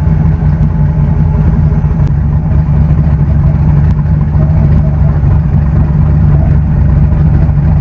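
Turbocharged small-block Chevy V8 running steadily while the car is driven, a loud, even drone.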